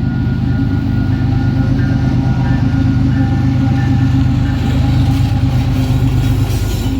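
Diesel-electric locomotive of the CPKC Christmas train running close by: a loud, steady, low engine rumble with a hum of higher tones over it.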